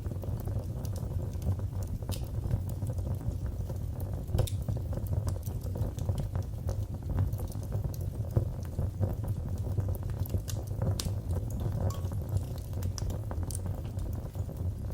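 Wood fire crackling in a fireplace: frequent small snaps and pops over a low, steady rumble of the flames, with a few louder pops.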